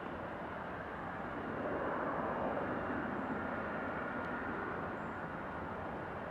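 Jet airliner engine noise, a steady rush that swells about a second and a half in and eases off slightly, with a faint high whine on top.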